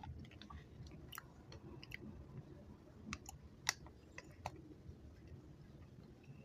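Close-up chewing of chewy chocolate candy: soft, sticky mouth noises with scattered sharp wet clicks, which thin out after about four and a half seconds.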